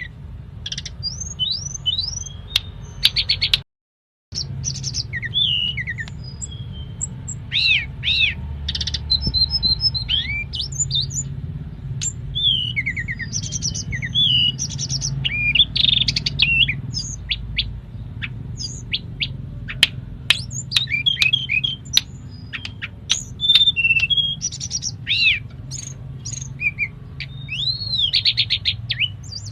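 A tledekan gunung songbird singing a fast, varied song of chirps, slurred whistles and rapid trills, its song filled with imitated phrases of other birds. The sound cuts out completely for about half a second near four seconds in, over a steady low hum.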